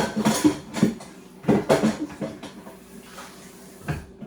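Kitchen clatter: dishes, containers and cupboard doors knocked and handled, a run of sharp knocks in the first two seconds and another just before the end.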